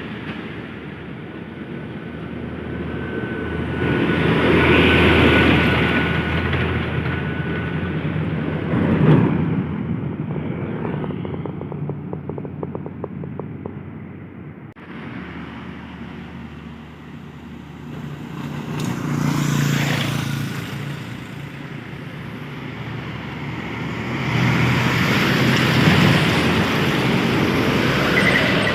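Road vehicle engines running, the sound swelling and fading several times: loudest about four to six seconds in, again around twenty seconds, and near the end.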